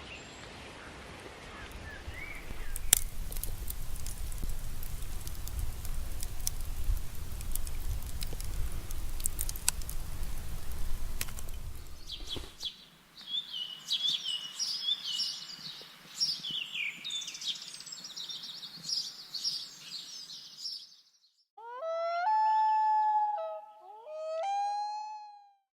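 Steady rain with scattered drips and taps for about the first half, then birdsong chirping. Near the end come two short pitched tones that bend in pitch.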